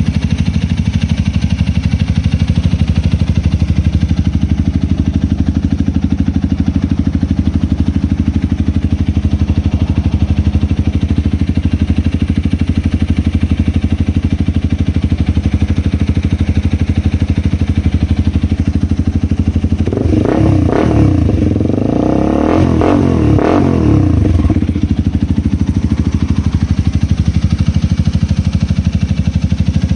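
Honda Rebel 250 single-cylinder engine idling steadily through an aftermarket Diablo muffler. About twenty seconds in, the throttle is blipped a few times in quick succession, the revs rising and falling, before it settles back to idle.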